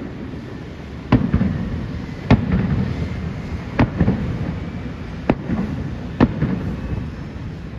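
Aerial firework shells bursting: about six sharp bangs spaced a second or so apart, each followed by a low rumbling echo.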